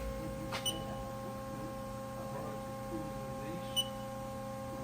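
Haas SL30T CNC lathe standing powered up with a steady hum of several tones, and two short high beeps, like control key presses, just under a second in and near the end.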